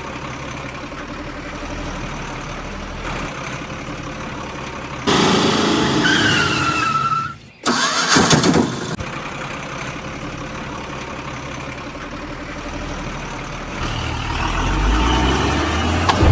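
Engine running steadily, in several cut-together segments: it gets louder about five seconds in, with a short whine that rises and then falls, drops out briefly, and swells again near the end.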